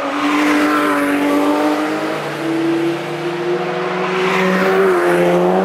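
Two sports cars pass one after the other under power. First a Porsche 911 GT3's flat-six swells to its loudest about half a second in, then a Volkswagen Golf GTI's turbocharged four-cylinder peaks about four and a half seconds in, the engine notes rising slowly as they pull through the corner.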